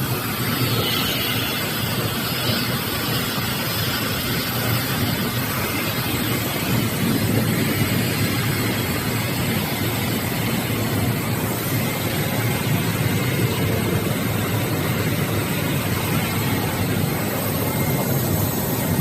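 Industrial steam heat pump running: a steady, loud machine drone that holds level without change.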